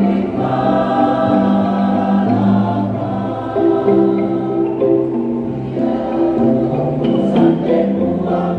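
Choir singing sustained chords, accompanied by a kolintang ensemble of wooden xylophones, whose struck notes come through near the end.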